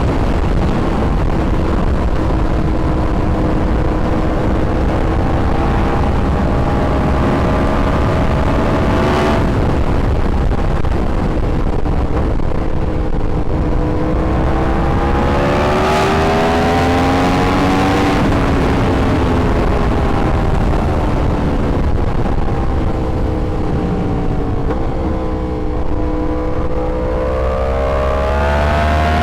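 Yamaha R1 sportbike's inline-four engine under way, its pitch climbing to about 9 seconds in, then dropping sharply at a gear change. It then rises again, falls off, and climbs once more near the end. A steady low rumble of wind runs underneath.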